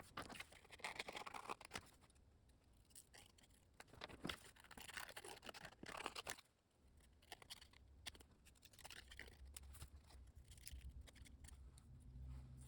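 Faint scissors snipping and rasping through cardstock, sped up, in a few bursts of a second or two.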